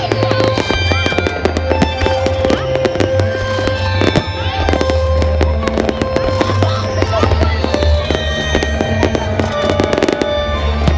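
Fireworks display set to loud music: shells bursting and crackling in quick succession over a heavy bass. High tones fall in pitch twice, once near the start and once past the middle.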